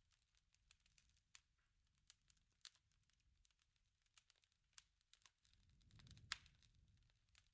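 Faint wood fire crackling with irregular small pops and snaps. About six seconds in, a low rumble swells under one louder pop.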